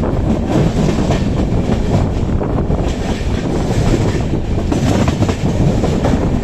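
Express passenger train running on the track: a steady rumble with the wheels clattering over rail joints.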